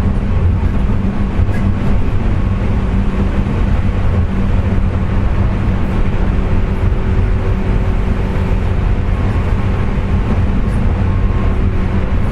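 Onboard running noise of a JR West 201 series electric train car running at speed: a steady, loud rumble with a steady whining tone over it. This is the car's 'jet sound', which the uploader attributes to electrical pitting of the bearings.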